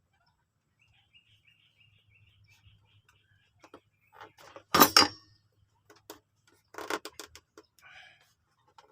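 Knocks and clatter of objects being handled, the loudest a sharp burst about five seconds in and a second cluster about two seconds later, with a faint rapid chirping near the start.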